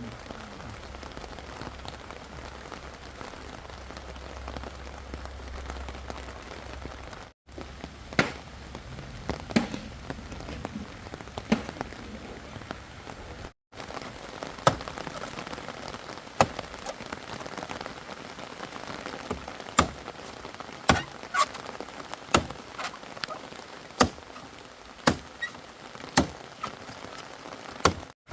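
Steady rain falling, with sharp knocks on bamboo from about eight seconds in, roughly one a second, as the bamboo tent is built.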